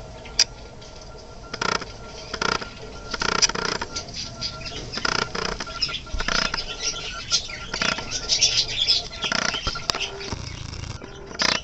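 Budgies chattering in high chirps, with repeated short flurries of wing flapping as birds flutter about.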